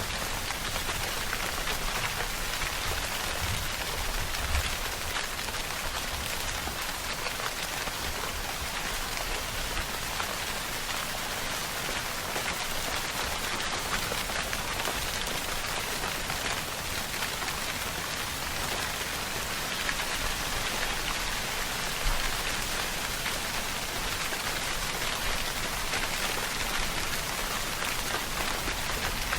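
Steady rainfall: a dense, even hiss of drops hitting a surface, with fine individual drop ticks and an occasional heavier drop.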